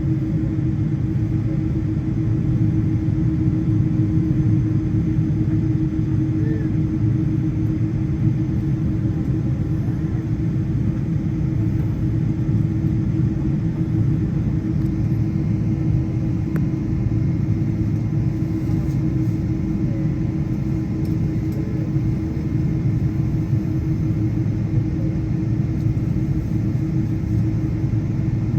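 Steady low rumble of a Boeing 777's cabin on the ground before takeoff, with a constant mid-low hum over it. It is even, with no rise in pitch or power.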